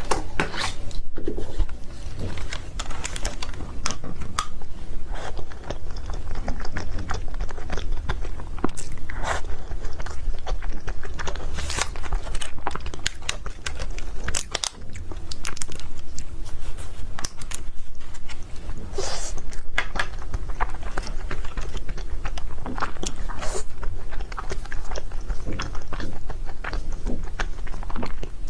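Close-miked eating sounds: a piece of Korean-style cake being bitten and chewed, with many small irregular mouth clicks and moist crackles over a steady low rumble.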